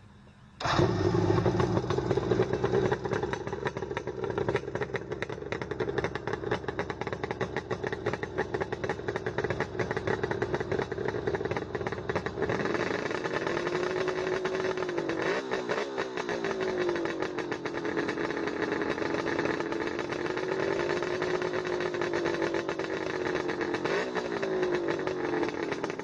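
Motorcycle engine running, steady at first; from about halfway its pitch rises and falls several times as the revs go up and down.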